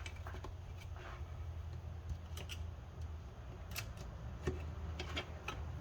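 Scattered light clicks and taps of transmission parts and tools being handled during reassembly, over a low steady hum.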